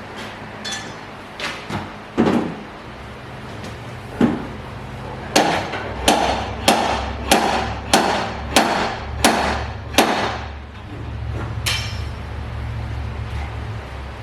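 Sharp metal-on-metal hammer strikes on a car's quarter-panel sheet metal, working out wavy metal around the wheel well: a few scattered blows, then a steady run of about eight strikes a little over half a second apart, and one more near the end. A low hum runs underneath in the second half.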